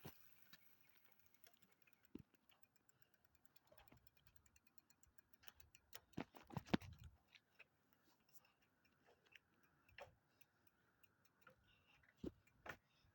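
Near silence with faint scattered ticks and clicks, and a short cluster of louder knocks about six to seven seconds in.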